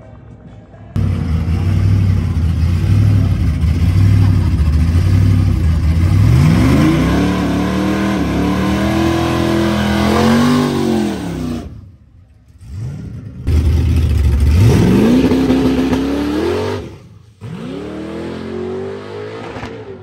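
Drag-racing truck engines at the strip. An engine holds a steady pulsing note, then launches and revs up in rising sweeps, in several short clips that cut off abruptly.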